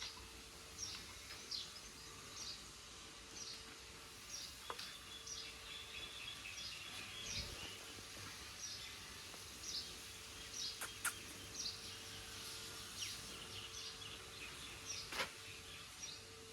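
Outdoor ambience with small birds chirping repeatedly in short, high calls, over a faint steady hum.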